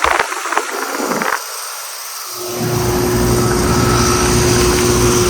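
Clicks and rustling of handling, then a short gap. About two and a half seconds in, a 2017 Rheem central air conditioner's outdoor condensing unit is heard running, a steady hum with a held mid-pitched tone from its compressor and fan.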